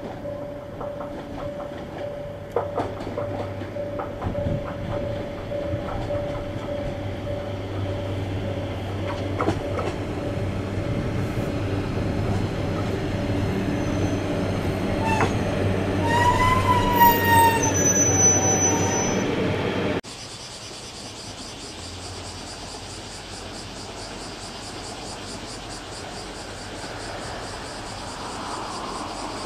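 JR Kyushu YC1 series hybrid diesel-electric train running into a station and braking, growing louder as it approaches, with squealing wheels and brakes near the end of its approach. It cuts off suddenly and gives way to the quieter, steady sound of a distant train.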